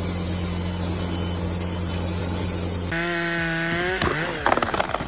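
Power saw running at a steady pitch with a low hum and hiss while it cuts wood; about three seconds in it gives way to a higher, slightly wavering engine note, then a run of knocks and clatter with the engine revving.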